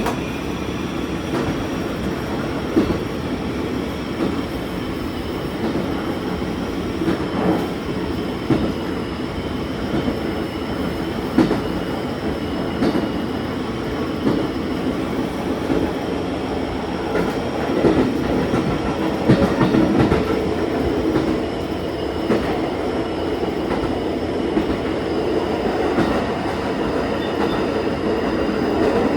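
Diesel railcar running along the line, heard from the front of the train: steady engine and wheel noise with occasional sharp clacks of the wheels over rail joints.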